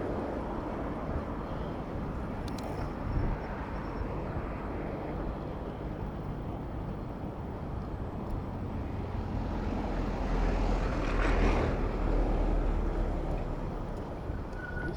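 Steady road traffic rumble heard from a bicycle riding in city traffic, swelling louder for a few seconds as a vehicle passes close about ten seconds in.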